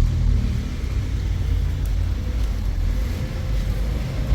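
Motor vehicle running, a steady low rumble with a faint even hum above it.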